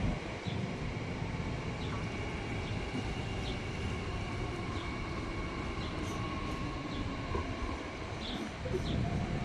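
Red DB Regio electric multiple unit running past: a steady low rumble with a faint whine, and a few faint ticks.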